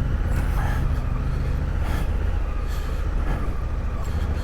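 Adventure motorcycle engine running steadily at low revs while riding a rough off-road track, with wind rumble on the helmet microphone and a few short knocks from the bike on the rough ground.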